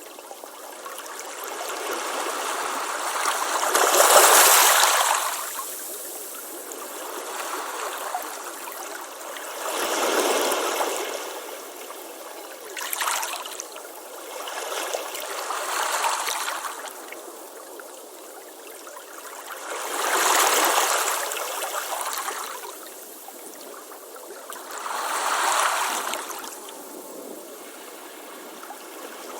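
Ocean waves breaking on a beach and washing back, surging about every five seconds, with the loudest wave about four seconds in.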